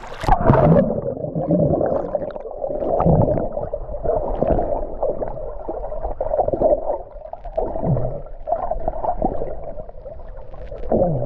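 Muffled water gurgling and sloshing against a camera held at or under the surface of the sea, with the higher sounds cut off.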